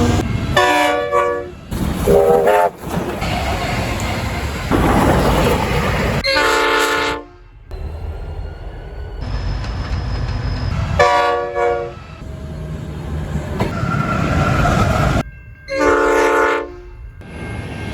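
Diesel freight locomotive horn sounding about five short blasts, one of them higher-pitched, over the rumble and clatter of a long freight train passing. The sound drops out abruptly twice.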